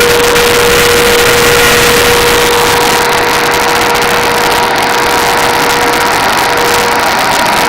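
Large 250 hp industrial fan, its blades newly replaced, running steadily at speed on a test run after repair: a loud, even rush of air with a constant whining tone over it.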